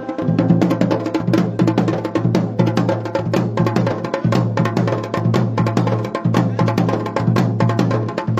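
Dhol and damau drums playing a fast, driving rhythm of rapid, sharp stick strokes over a steady low drum boom, as an instrumental passage between sung verses of a Garhwali devotional song.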